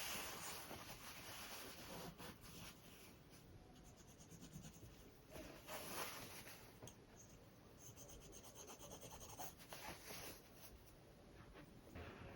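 Faint, irregular scratching and rubbing of hand work on fabric, in short strokes with a few louder swells.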